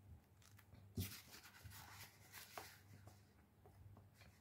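Faint chewing of a mouthful of sandwich: soft, irregular mouth clicks and smacks, with one louder, sharper smack about a second in.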